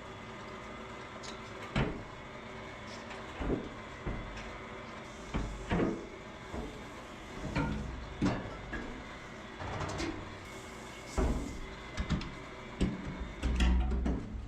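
Irregular knocks and clunks of hand work with tools and parts, roughly one every second or two and busiest near the end, over a steady background hum.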